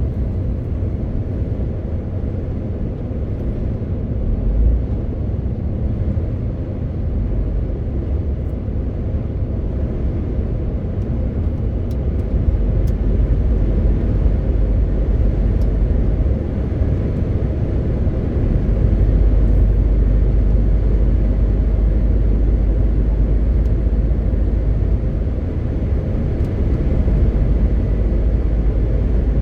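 MAN TGX 18.520 truck driving along, its straight-six diesel engine and the road noise making a steady low drone that grows a little louder about two-thirds of the way through.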